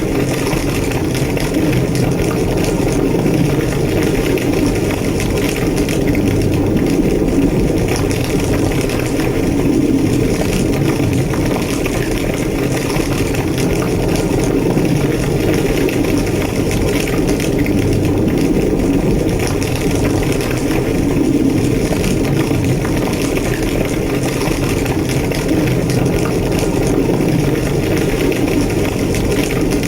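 Large structure fire burning steadily, with a deep low roar and constant crackling.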